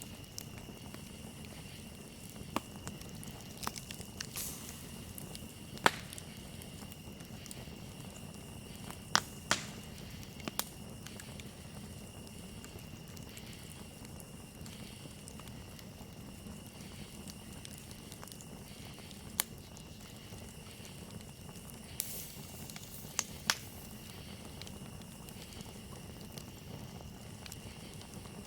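Campfire crackling, with about a dozen sharp pops scattered through it, the loudest about six and nine seconds in, over a steady high-pitched trill of crickets.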